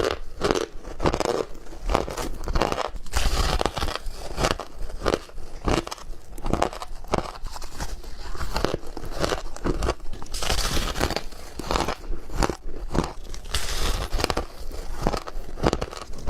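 Ice being bitten and chewed close to the microphone: a dense, irregular run of crunches with no pause.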